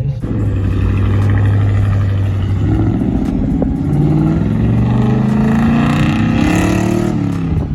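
Engine of a lifted pickup truck pulling away under load: a steady low drone at first, then its pitch climbs in steps through the middle and drops off near the end.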